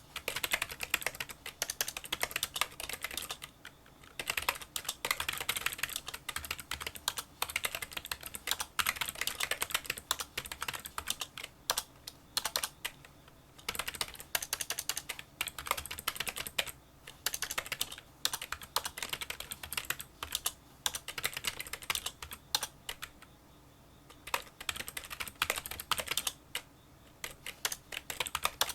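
Fast touch-typing on a Kinesis Freestyle Solo split keyboard with membrane key switches: rapid, quiet clicking keystrokes in bursts, broken by brief pauses.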